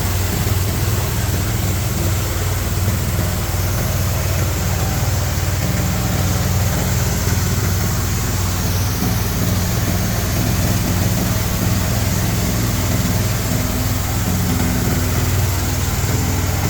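Large G-50 hammer-mill feed grinder running steadily: a constant low hum with a broad rushing noise over it, unchanging in level.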